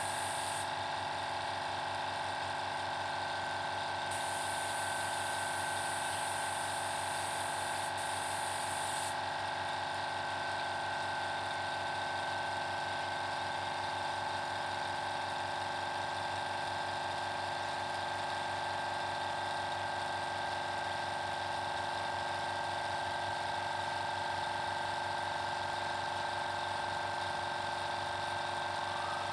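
Air compressor motor running steadily, with a brief stretch of higher hiss about four seconds in.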